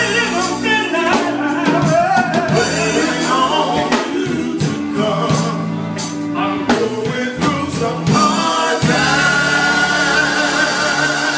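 Gospel group singing with instrumental backing, several voices together with sharp percussive hits through it.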